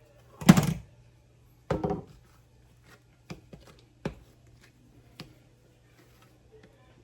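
Two heavy, dull thumps on a kitchen counter, about a second apart, then several lighter knocks and clicks: bagel dough being cut and handled on a work surface.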